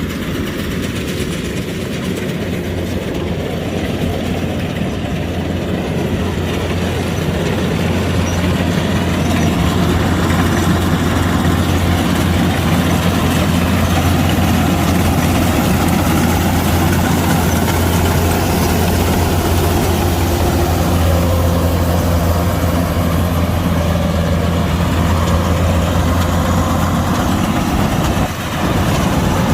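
Kubota DC-105X combine harvester's diesel engine and machinery running steadily with a low hum, growing louder a few seconds in. There is a brief dip near the end.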